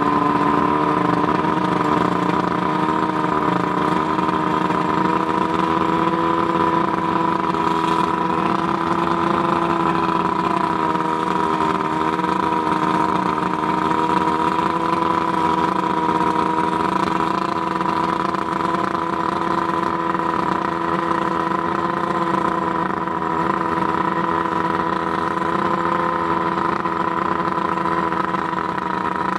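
Johnson 140 V4 two-stroke outboard motor running steadily at a constant speed, with its two replaced power packs and rebuilt carburetors.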